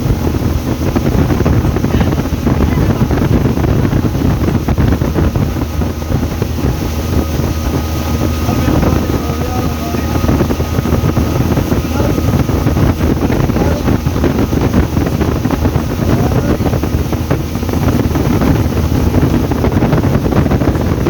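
Motorboat engine running steadily under way, with wind buffeting the microphone and water rushing along the hull.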